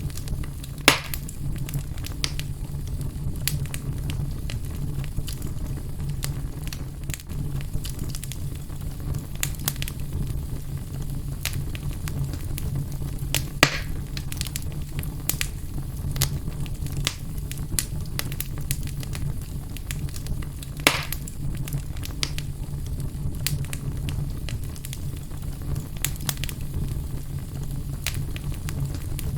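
Fire burning in a fireplace: a steady low rumble with frequent scattered crackles and a few louder pops, about one second in, midway and about two-thirds of the way through.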